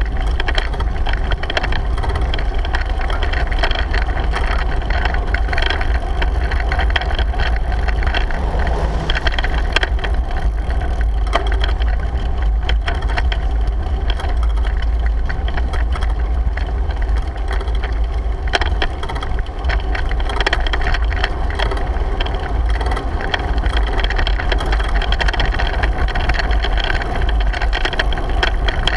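Steady wind noise buffeting a GoPro's microphone while cycling, with scattered clicks and rattles from the ride.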